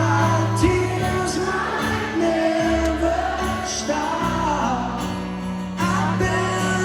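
A band playing with a singer: held bass notes under a sung melody that bends up and down.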